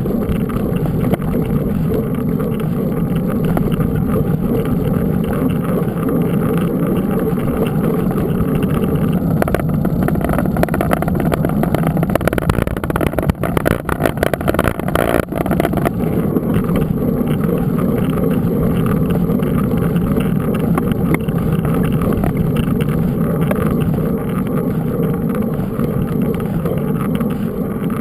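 Steady rolling rumble and wind noise from a mountain bike being ridden with the camera on board. A cluster of knocks and rattles comes about halfway through, as the bike goes over rough ground.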